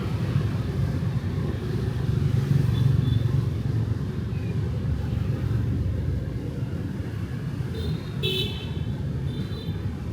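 Night street traffic of motorbikes and cars, a steady engine and tyre rumble, with a short high horn beep about three seconds in and several quick horn toots in the last two seconds.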